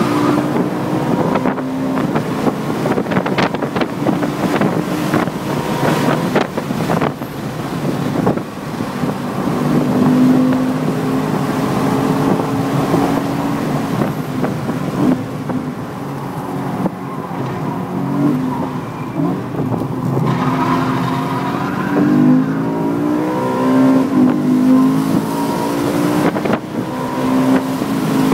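Car engine heard from on board as the car laps a road racing circuit, running continuously with its note rising and falling through the corners and straights.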